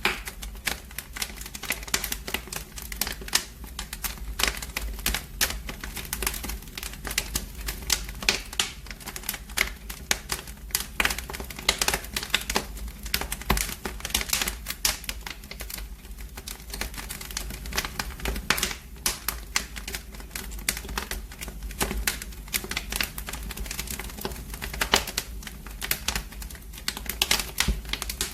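Wood fire crackling in a fireplace: a dense, irregular stream of pops and snaps over a low steady rumble.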